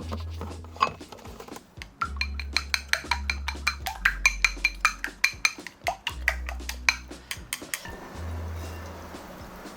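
Eating utensils clinking and tapping rapidly against a dish of ramen, many sharp clicks in a row, over background music with a steady bass line. Near the end the clicks stop and a soft hissing noise takes over.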